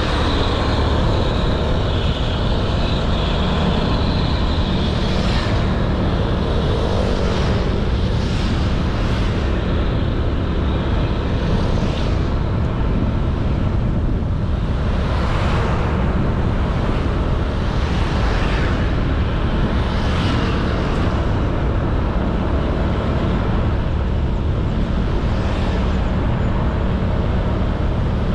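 Honda Beat 110cc scooter engine running steadily while riding at an even speed, under a constant rush of wind and road noise.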